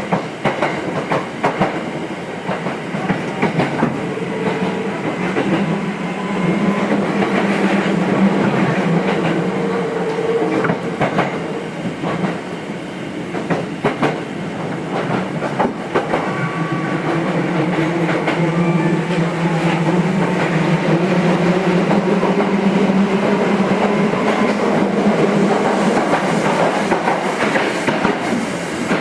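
Nose Electric Railway 5100 series electric train (ex-Hankyu 5100, resistance control) running, heard from inside the car: wheels clicking over rail joints under a steady rumble, with a low hum that swells twice.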